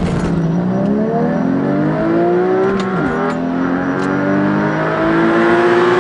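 Porsche Cayman GT4's 3.8-litre flat-six accelerating hard through a 0–60 mph run: the engine note climbs steadily, drops sharply at an upshift about three seconds in, then climbs again.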